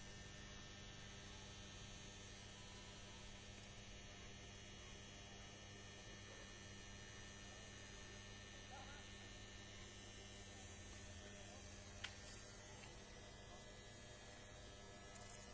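Electrical transformer humming faintly and steadily, a low, even mains hum, with a single short click about twelve seconds in. The hum is put down to overload and a maintenance problem.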